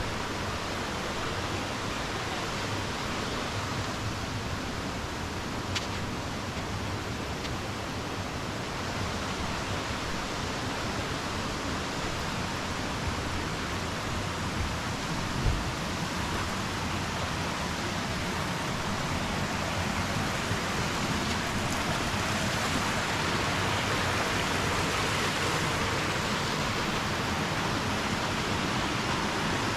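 Steady rushing of flowing water, growing a little louder over the second half, with a faint click and a soft thump along the way.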